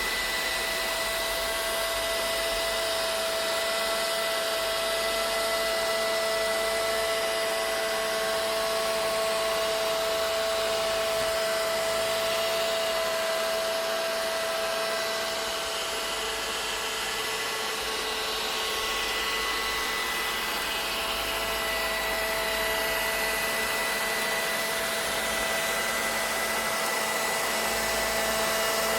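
Vacuum cleaner running steadily: an even rush of air with a steady motor whine on top.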